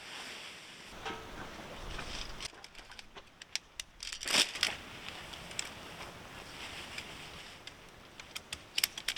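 Crinkly rustling of tent fabric with scattered sharp clicks and knocks, as a camping tent and its poles are handled. There is a louder rustle about four seconds in.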